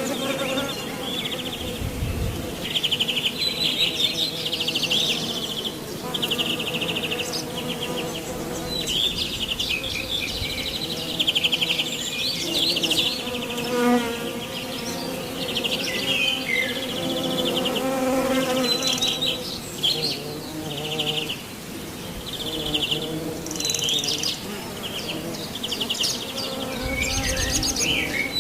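Summer marsh sounds: insects buzzing close by under a high, rapid chirring that comes in short repeated bursts of about half a second to a second, with a few bird chirps near the end.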